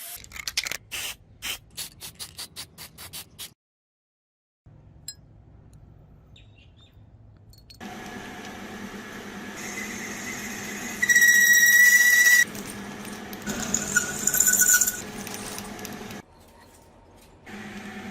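A power tool running steadily against the steel of a drill bit, squealing loudly and high twice. In the first few seconds there is a run of sharp clicks and taps.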